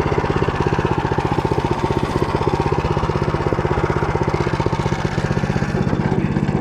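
Engine of the machine driving a Motor Sich rotary tiller, running steadily under load as the tiller drum churns through barley stubble, with a fast, even pulsing beat.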